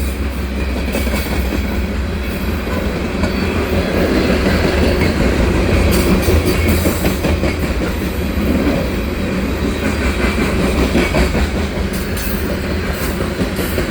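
Hopper cars of a CPKC freight train rolling past close by: a steady heavy rumble of steel wheels on rail, with sharp clacks as the wheels cross rail joints.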